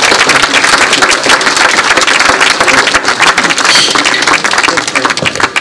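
Crowd applauding: dense, steady clapping from many hands that cuts off suddenly near the end.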